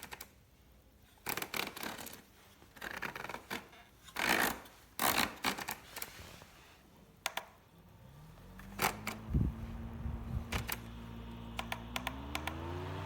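Clicks and scraping from handling, then the small electric motor of a battery-powered camping fan starting about eight seconds in. Its hum rises in pitch as it spins up, then steps higher again near the end.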